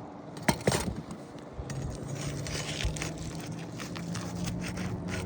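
Sharp clicks and light scraping as a tool works the nails out of a roof shingle, with two louder clicks in the first second. A steady low hum starts about two seconds in and grows slightly louder.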